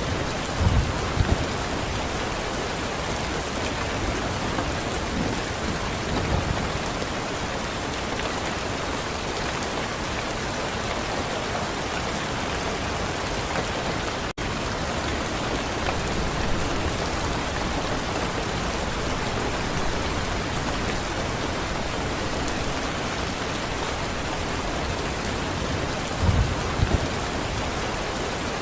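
Steady rain falling, an even hiss, with short low rumbles of thunder about a second in and again near the end. The sound drops out for an instant midway.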